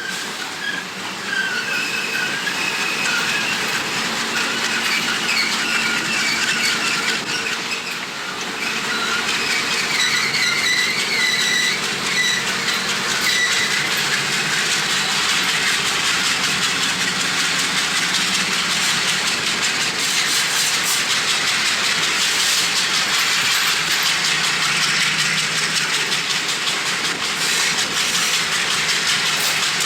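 Passenger train running along the rails, with a steady rush of wind noise on the microphone that grows louder over the first several seconds. A wavering high squeal sounds over roughly the first dozen seconds.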